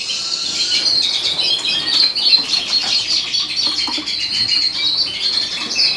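Many small cage birds in a birdroom, canaries and finches, chirping and calling continually with high-pitched twitters that overlap one another.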